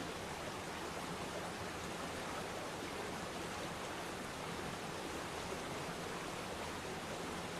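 Waterfall rushing steadily into a pool, an even splashing hiss.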